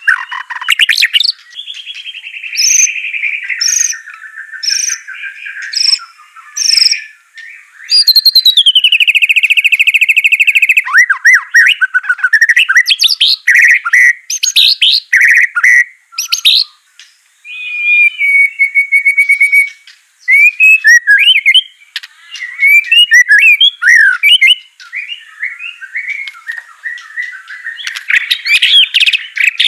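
White-rumped shama (murai batu) singing a loud, varied song of whistles, fast trills and rapid chattering phrases, with a couple of brief pauses.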